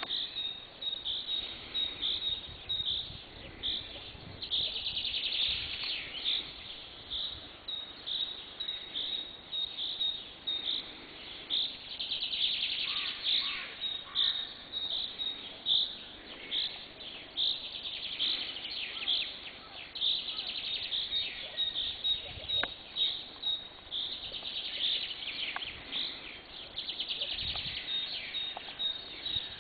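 Dawn chorus: several songbirds singing and calling at once, a steady stream of short high chirps and trilling phrases.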